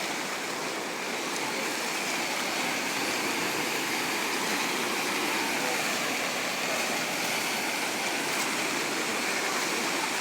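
River in spate after heavy rain, its floodwater rushing steadily.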